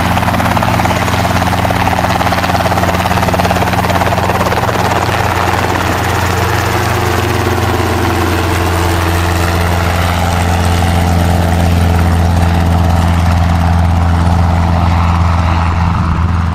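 Robinson R22 Beta II helicopter running steadily, its rotor and engine making a continuous low drone with a fast rotor beat.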